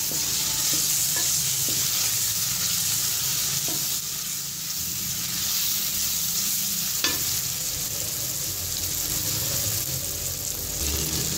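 Onion-and-tomato masala sizzling in hot oil in a metal karahi as a wooden spoon stirs it, with a steady frying hiss and a few light knocks of the spoon against the pan, one sharper knock about seven seconds in.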